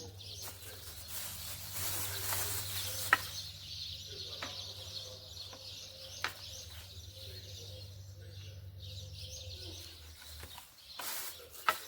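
Birds chirping in the background, over a steady low hum that cuts out about ten seconds in, with a few sharp clicks.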